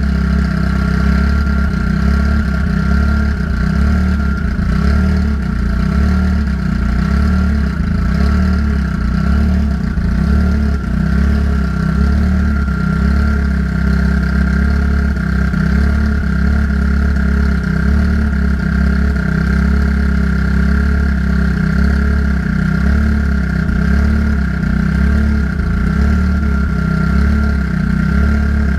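Car engine idling steadily while the cooling system is being burped of trapped air, with a steady whine above the engine note.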